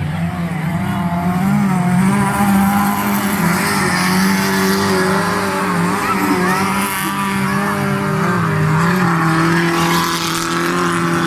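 Racing engines running hard at a motorsport track, their pitch rising and falling with the revs throughout.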